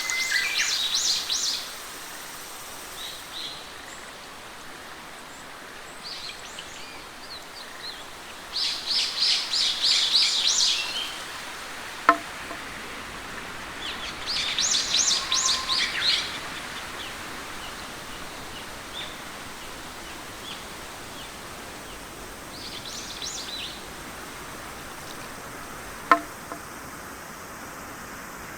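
Songbirds singing in bursts of rapid high trilling phrases over a steady background hiss of nature ambience, with two sharp clicks, one near the middle and one near the end.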